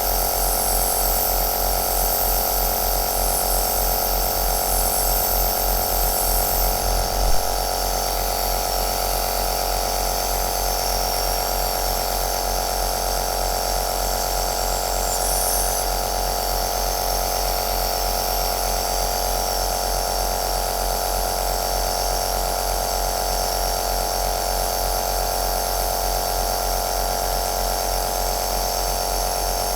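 Home compressor nebulizer running steadily with a constant motor hum. A fast low pulsing in the first seven seconds stops after a brief louder moment.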